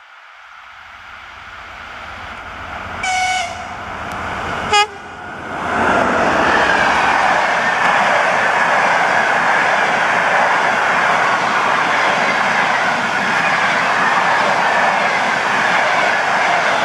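TEP70BS diesel locomotive approaching at speed with a rising rumble, sounding two short horn blasts about three and nearly five seconds in, the second briefer and louder. Then the locomotive and its passenger coaches pass close by: a loud, steady rolling noise of wheels on rail with clickety-clack.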